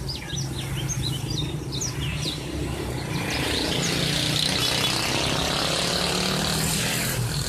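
Small birds chirping in quick sweeping notes, then a passing vehicle: a broad hiss with a low hum that swells about three seconds in and holds over the chirps for several seconds before falling away near the end.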